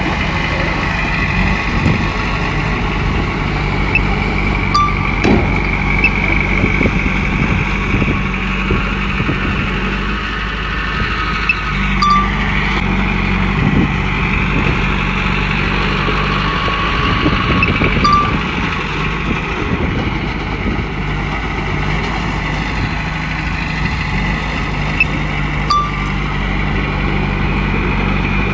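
Komatsu bulldozer's diesel engine running steadily while it works, with a high whine that rises and falls and occasional short squeaks and clicks.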